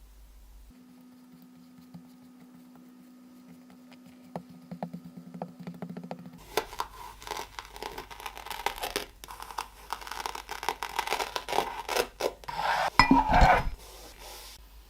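Kinetic sand being scraped and cut: a dense run of scratching and crackling that starts about six seconds in and is loudest near the end. Before it comes a low steady hum with a few light clicks.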